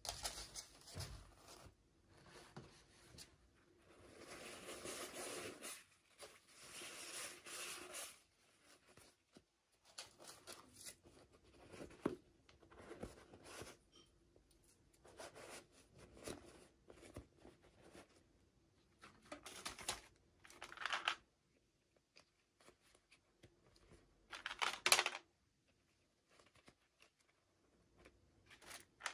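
Toy packaging being torn open and crinkled by hand, in irregular bursts of tearing and rustling with short quiet pauses between.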